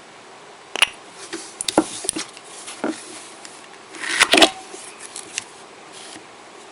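Small clicks and taps of nail-art tools being handled on a tabletop, scattered through the middle, with a denser burst of clicks about four seconds in.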